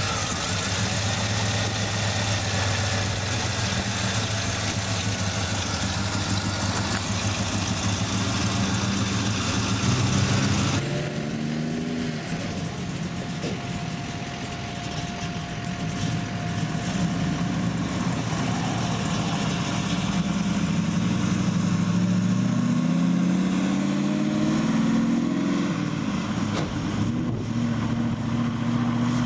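Classic car engines running in a slow line of cars: a steady idle with exhaust hiss, which changes abruptly about a third of the way in. Near the end an engine revs up in several rising sweeps as a car pulls away.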